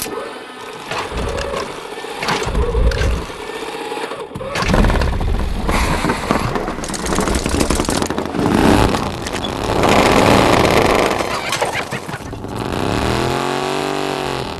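Old Indian Scout motorcycle's sidevalve V-twin being started, running in uneven, irregular bursts as it catches, then revved up and back down near the end.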